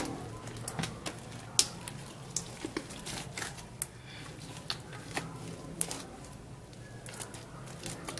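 Homemade slime with polystyrene beads being kneaded and squeezed by hand, giving irregular sticky clicks and little pops.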